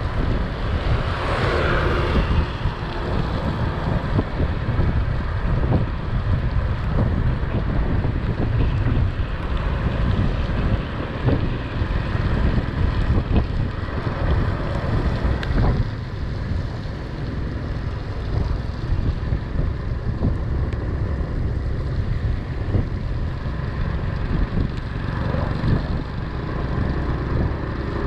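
Wind buffeting the microphone: a loud, gusting low rumble that keeps rising and falling.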